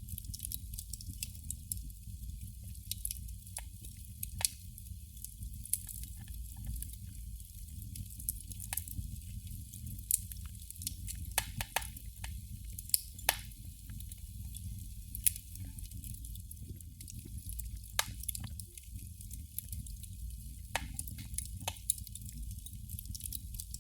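Candle flame crackling: irregular sharp pops and snaps, a few louder than the rest, over a low steady background hum.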